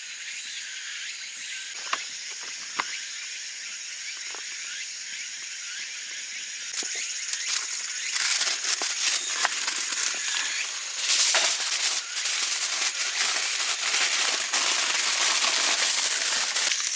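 Campfire crackling, with a few sharp pops at first, then turning much louder and denser about halfway through.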